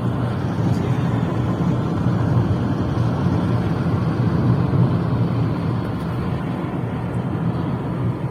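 Steady drone of a moving vehicle heard from inside: engine and tyre noise as a deep, even rumble.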